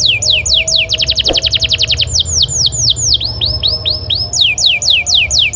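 Male domestic canary singing: a run of quick whistled notes, each sliding down in pitch, several a second. About a second in it breaks into a fast rattling trill lasting about a second, then returns to slower sliding notes.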